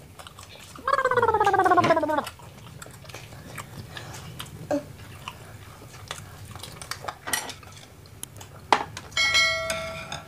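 Eating sounds of a mukbang: chewing and scattered soft clicks of a fork and chopsticks against a wooden board and plate. About a second in, a voice makes one long sound sliding down in pitch. Near the end a short chiming notification tone rings, the subscribe-button sound effect.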